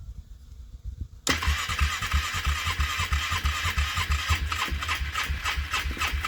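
Gasoline engine being cranked over on a cold start, with uneven low thumps, not yet settling into a run. It starts faintly, then gets suddenly louder about a second in.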